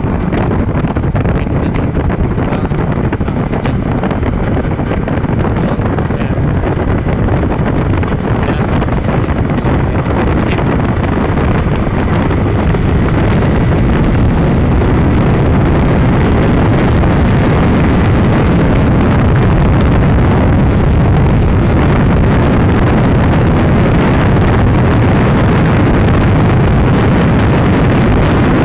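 Honda Supra X 125 single-cylinder motorcycle ridden at speed, its engine under heavy wind buffeting on the microphone; the noise grows a little louder about halfway through, then holds steady.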